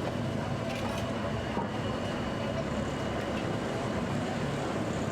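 Steady low rumble of roadside traffic.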